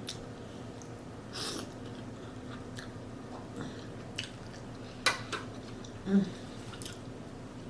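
Close-up chewing of food, with scattered wet mouth clicks and smacks, the sharpest about five seconds in. A short hummed "mm" of enjoyment comes about six seconds in.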